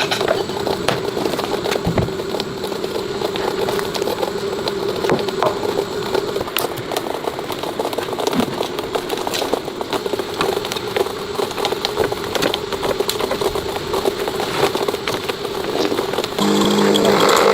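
A machine runs steadily with a mid-pitched hum and scattered clicks and crackles. Near the end, a louder, pitched machine sound cuts in.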